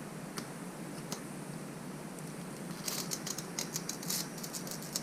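Fingers rubbing and pressing a sticker down onto a motorcycle, heard as a quick run of light scratchy clicks that starts about three seconds in, over a steady background hiss.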